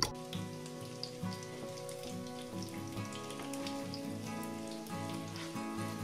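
Oat-and-cheese patties frying in hot vegetable oil in a pan, the oil sizzling with fine scattered crackles, under soft background music.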